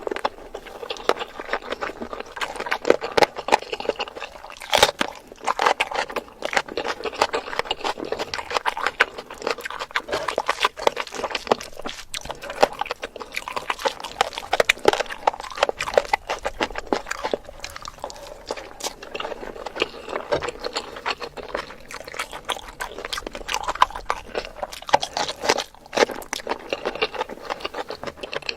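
Close-miked mukbang eating: continuous chewing and biting, a dense run of wet mouth clicks and small crunches.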